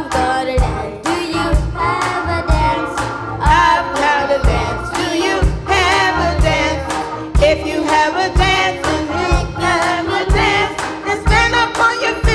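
Gospel choir singing an upbeat song with a live band, drums keeping a steady beat of about two strokes a second with bass underneath.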